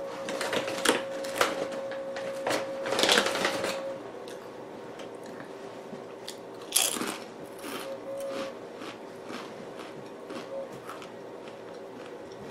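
A person biting and chewing a soft bean taco with lettuce close to the microphone: a string of crunchy mouth clicks, densest about three seconds in, with one sharp click about seven seconds in. A faint steady hum underneath stops about four seconds in.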